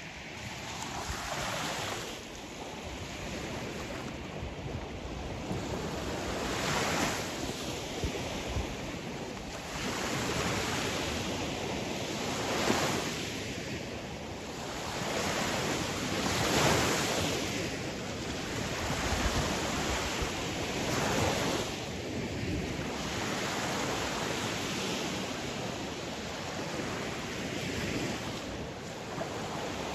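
Sea waves breaking and washing on a shore, a steady rush of surf that swells with each wave every few seconds.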